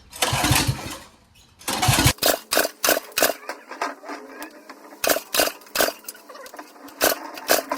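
A mini bike's small engine being cranked over by its pull starter without catching, followed by a fast, irregular run of sharp clacks and rattles, about three to four a second.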